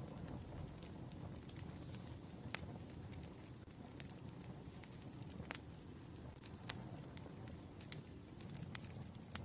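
Wood fire burning: a steady low rumble with sharp crackles and pops scattered irregularly, a few seconds apart.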